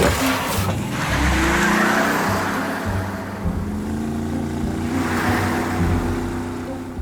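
A noisy, vehicle-like sound effect that swells about a second in and again near the end, over background music.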